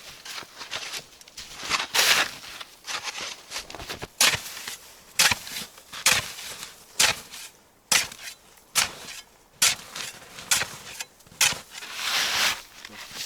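Crunching steps at about one a second, each a short, sharp crunch.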